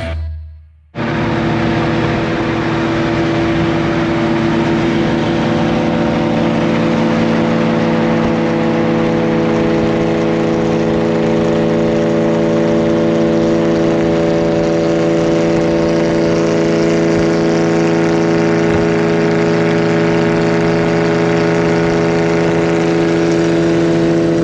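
A car engine running steadily at an unchanging pitch, starting about a second in after a brief gap.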